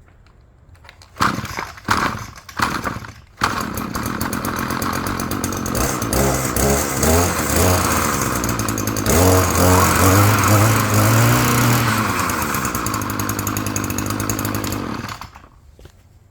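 Echo edger's two-stroke engine being started: a few short bursts, then it catches about three seconds in and runs, revving up and down several times, before it cuts off near the end.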